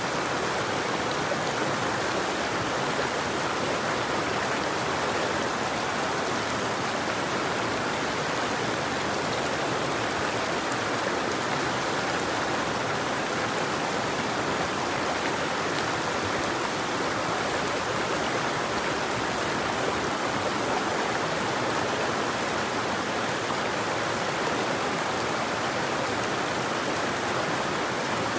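River water flowing over rocks: a steady, even rush with no breaks.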